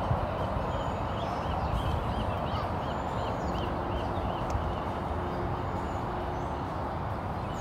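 A bird calling a quick run of short, repeated chirps, about four a second, for a few seconds, over a steady background rush.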